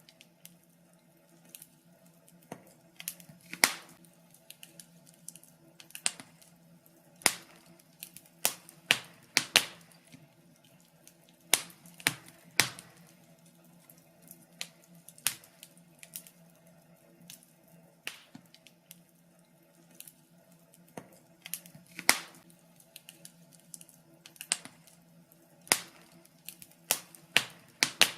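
Wood fire in a fireplace crackling, with irregular sharp snaps and pops over a faint steady low hum.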